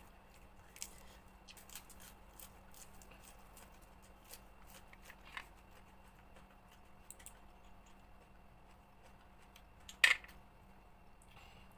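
Scattered small clicks and cracks of blood cockle shells being pried open and handled, with one louder sharp crack about ten seconds in.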